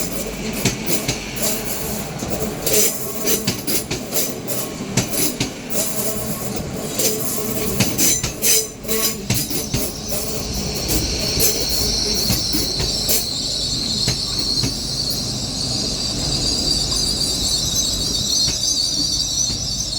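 Train moving through the station with its wheels clicking and knocking, then a high-pitched wheel squeal sets in about halfway through and holds steady.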